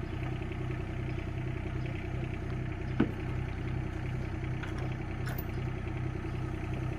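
Mini excavator's diesel engine idling steadily with an even low pulse. A brief falling squeak cuts through about three seconds in.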